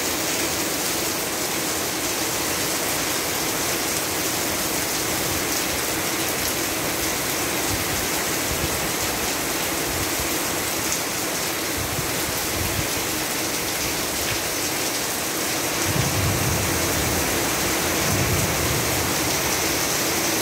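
Steady heavy rain falling, an even hiss, with low rumbles, the loudest in the last few seconds.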